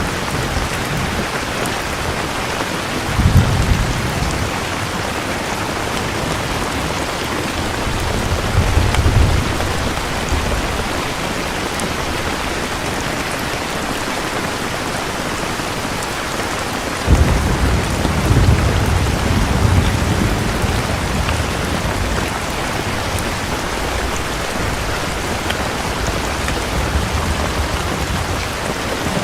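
Steady rain falling, with thunder rumbling three times: a short rumble a few seconds in, another around nine seconds, and a sharper crack just past halfway that rolls on for several seconds.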